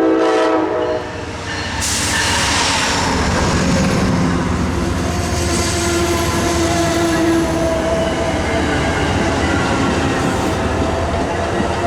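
Train horn sounding a chord that cuts off about a second in, then a passing train's continuous rumble and wheel noise on the rails.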